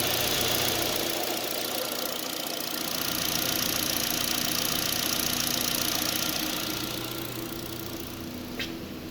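2017 Chevrolet Sonic engine with 63,000 miles running steadily on a run test, a little louder for a few seconds in the middle and settling lower near the end, with a single sharp click just before the end.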